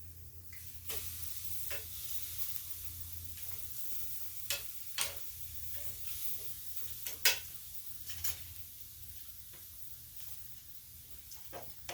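Quail sizzling over a charcoal grill: a steady hiss with scattered sharp pops and crackles, several of them louder about four and a half, five and seven seconds in.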